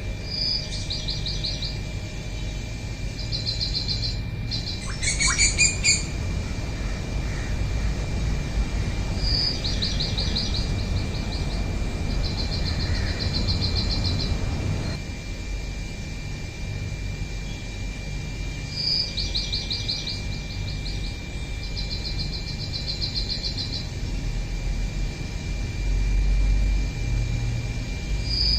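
Bird song: one bird repeats the same phrase about every nine seconds, a short high note followed by two fast trills. A single louder, clearer call comes about five seconds in. A steady thin high tone and a low rumble run underneath.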